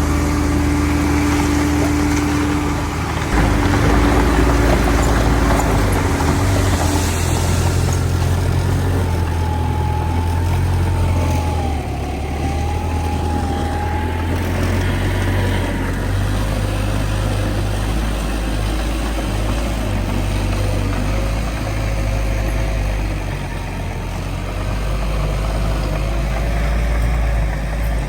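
Heavy diesel engines of earthmoving machinery running steadily, with the engine note shifting a few times. A whine wavers up and down in the middle.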